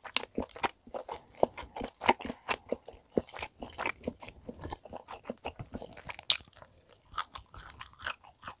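Close-miked chewing of tender steak: a quick, uneven run of wet mouth clicks and smacks, with one sharper click about six seconds in.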